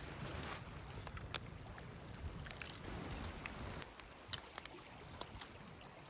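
Scattered sharp snaps and clicks of campfire twigs and small wood, over a steady low outdoor rumble.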